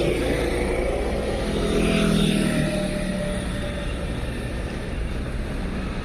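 A motor vehicle passing on the street, its engine note sinking slightly in pitch as it goes by, over a steady low rumble of traffic and wind.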